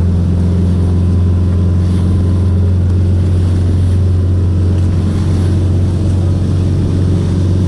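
Tour boat's engine running steadily, a loud, even low drone that holds the same pitch throughout.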